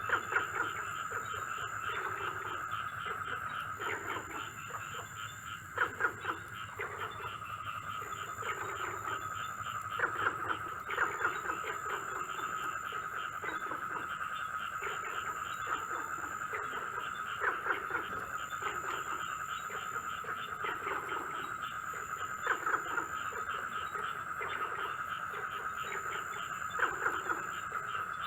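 Night chorus of frogs and insects: a steady high insect trill and buzz, with frogs croaking in short repeated calls, roughly one or two a second.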